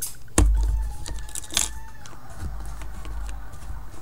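Metal mouse trap being handled and set, with a sharp click about half a second in followed by a low rumble of handling, and a second click about a second and a half in.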